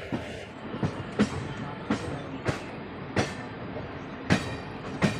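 Wheels of a moving Indian Railways express train clattering over the rails: a steady rumble broken by a run of sharp clacks at uneven spacing, about seven of them.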